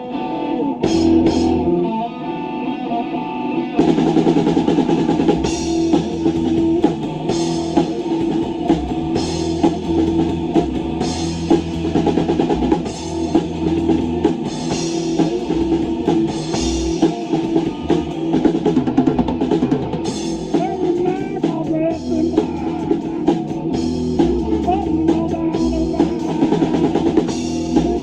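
Live rock band playing a song. An electric guitar starts alone, and the drum kit comes in with the band about four seconds in.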